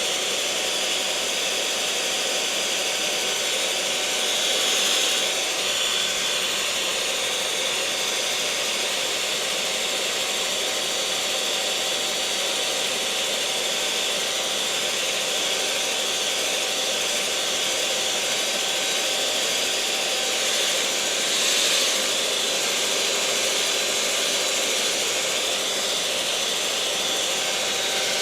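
Electric mixer motor running steadily, a whirring hum with a few steady whining tones, swelling slightly about five seconds in and again near twenty-one seconds.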